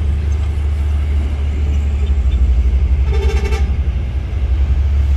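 Freight train of flat wagons rumbling past with a steady, heavy low rumble. About three seconds in there is a short, single horn toot.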